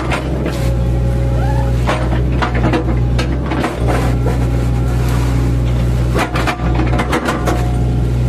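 Mini excavator's diesel engine running steadily under load, with repeated cracks and crunches as the bucket chops into a felled oil palm trunk, and a short rising hydraulic whine about a second in.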